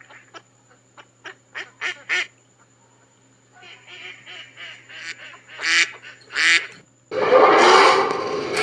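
Ducks or geese calling: a string of short quacks and honks, a few at a time, with two louder calls near the end. About seven seconds in, a loud engine noise starts suddenly and keeps going.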